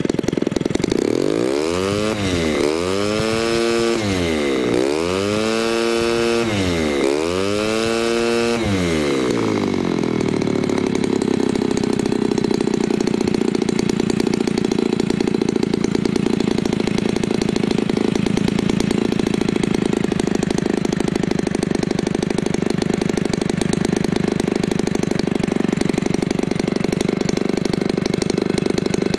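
Homelite 30cc two-stroke engine, converted for a giant-scale RC airplane and swinging a propeller, being revved up and back down about three times, then settling to a steady lower speed for the rest of the time.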